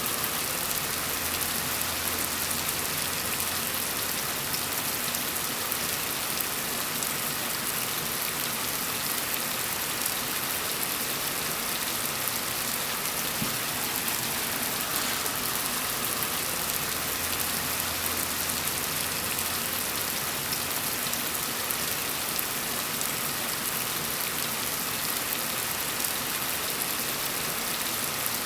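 Steady gentle rain falling, an even hiss of many drops with no pauses. A faint low rumble swells briefly twice, near the start and about halfway through.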